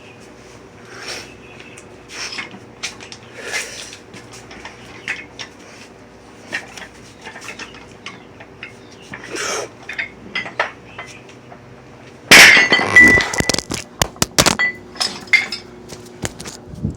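Metal weight plates clinking lightly as they are handled, then a sudden loud crash about twelve seconds in as the loaded plates drop, with clanking and rattling for a couple of seconds.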